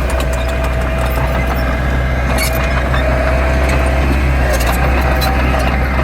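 Heavy machinery's diesel engine running steadily with a deep drone and a faint whine that comes and goes, with scattered light clicks and knocks.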